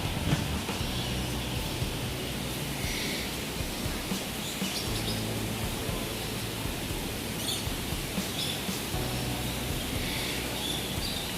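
Several small birds chirping and calling in a walk-through aviary, short scattered chirps over a steady background hum.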